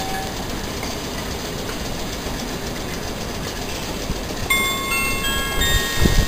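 Electric train running through the station: a steady rumble of wheels on track, joined about two-thirds of the way in by a cluster of whining motor tones that step upward in pitch, with a couple of low wheel thumps near the end.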